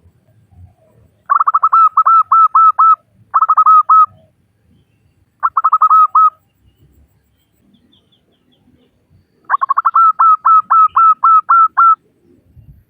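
Female zebra dove (perkutut) calling to draw males: four bursts of quick, evenly repeated cooing notes, about five a second, each burst lasting one to two and a half seconds, with short pauses between them.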